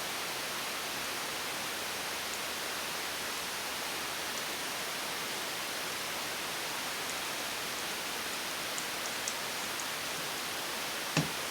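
Steady hiss of background noise with a few faint light ticks about nine seconds in and one sharp metallic click just before the end, from a caliper being handled against the cylinder bore.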